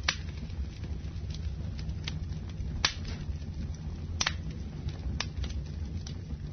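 Wood fire burning in a fireplace: a steady low rumble of flames with crackling and several sharp pops of the burning wood, the loudest just after the start and about three seconds in.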